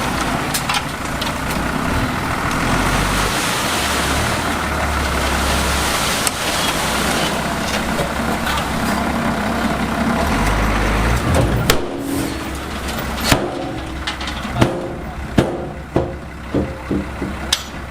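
Heavy diesel earthmoving machinery running steadily with a low rumble. From about two-thirds of the way in the noise drops, and several sharp metallic knocks and clanks ring out.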